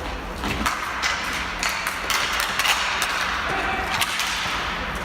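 Ball hockey play: irregular sharp clacks and knocks of sticks and the ball, over the steady background noise of the rink.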